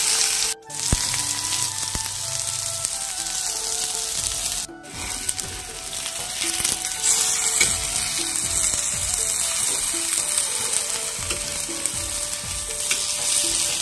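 Brinjal (eggplant) slices shallow-frying in hot oil on a tawa griddle: a steady sizzle that cuts out briefly twice, about half a second in and again around five seconds in.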